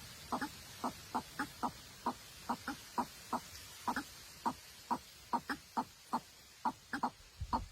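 A bird giving short, clucking calls over and over, about three a second, in a steady run.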